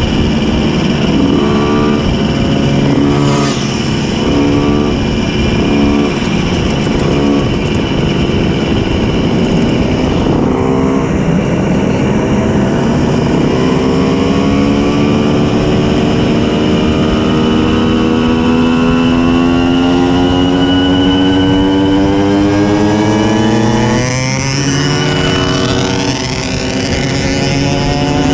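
Tuned 90 cc reed-valve two-stroke engine of a Simson S51 moped accelerating hard through the gears: several quick rises in pitch each cut off by an upshift in the first seven seconds, then a long steady climb in revs, a shift about 24 seconds in, and climbing again.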